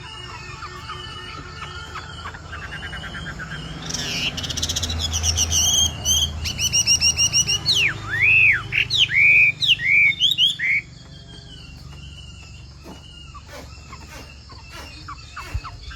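Chinese hwamei singing a varied song: rapid trills and quick repeated notes, then a run of loud arched, slurred whistles about eight seconds in, dropping to quieter notes after about eleven seconds.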